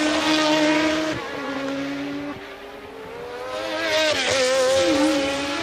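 1982 Formula One race cars' engines at high revs, passing twice. The first is loud and fades about a second in with stepwise drops in pitch. A second comes up loud from about three and a half seconds, its note swooping down in quick downshifts near four seconds.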